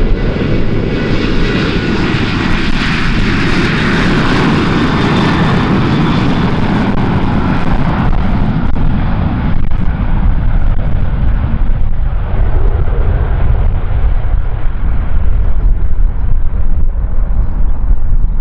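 Boeing 737-800 jet airliner taking off at full power and passing by. A high fan whine fades in the first half while the engine noise slides lower in pitch as the plane moves away. Strong wind rumbles low on the microphone, more so near the end.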